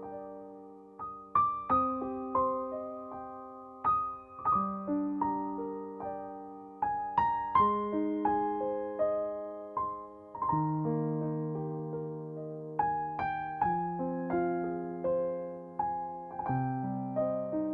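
Gentle background piano music: struck notes in slow arpeggiated chords, each note fading after it is played.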